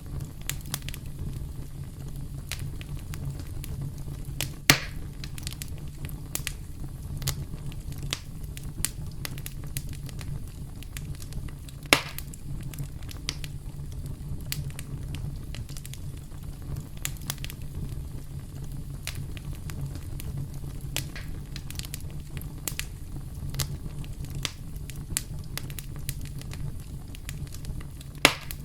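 Campfire crackling: a dense run of small wood pops and snaps over a steady low rumble of the flames, with louder pops about five seconds in, at twelve seconds and near the end.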